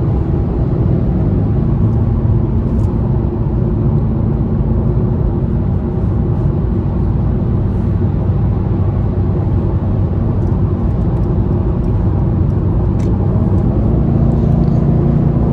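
Mercedes-AMG C63 S twin-turbo V8 running at steady motorway speed, its low engine drone mixed with road and wind noise as heard inside the car's cabin.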